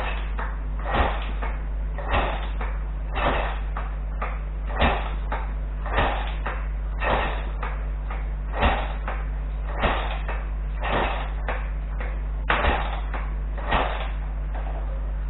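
Sharp knocks repeating roughly once a second, not quite evenly, over a steady low hum.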